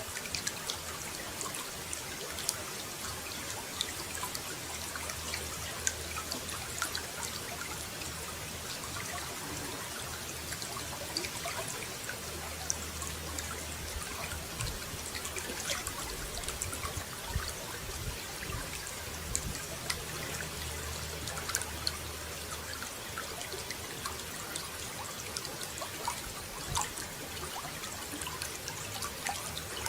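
Running water trickling and splashing steadily, with many small sharp droplet ticks on top and a low rumble underneath that comes and goes.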